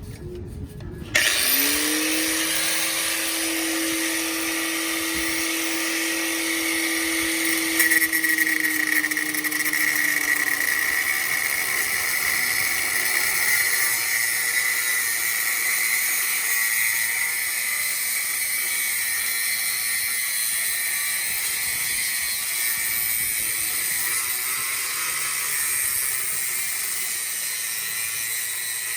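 Angle grinder switched on about a second in, spinning up to speed, then cutting through a steel exhaust pipe with a steady, high grinding hiss.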